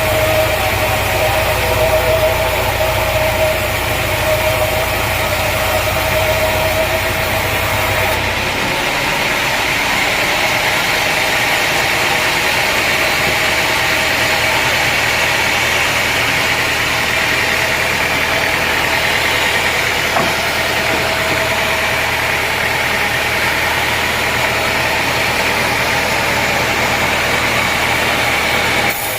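Sawmill machinery running steadily: a motor hum with a constant whine. About eight seconds in, the low hum and the mid-pitched tone drop out, and a steady, noisier machine sound carries on.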